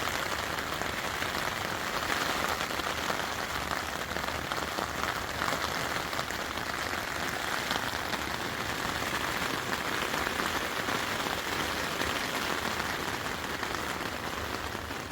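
Steady rain falling, an even pattering hiss with no let-up.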